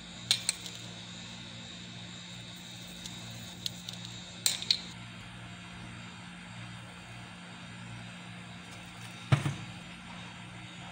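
A few sharp clinks of kitchen utensils against cookware, the loudest near the end, over a steady low hum.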